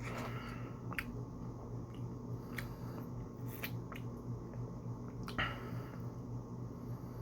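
Close-miked eating sounds: moist chewing with scattered sharp clicks, and a louder crunchy bite about five seconds in, over a steady low hum.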